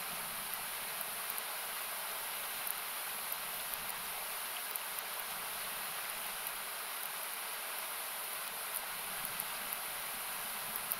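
Steady rushing of a river, heard as an even noise, with small crackles and pops from a wood campfire scattered throughout.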